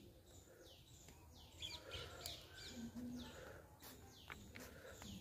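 Faint birdsong: repeated high calls that slide downward, about one or two a second. A few light clicks come near the end.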